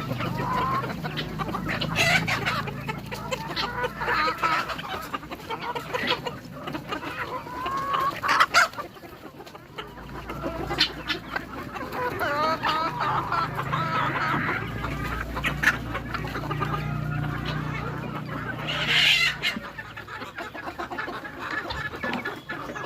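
A flock of desi (native-breed) chickens clucking and calling continuously, many birds overlapping, with one louder call about 19 seconds in.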